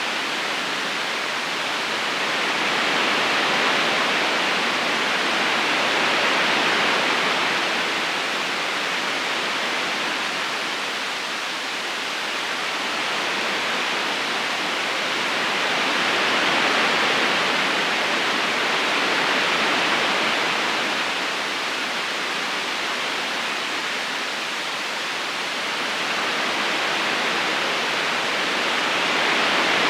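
Steady rushing of a flowing river, an even wash of water noise that swells and eases slowly every ten seconds or so.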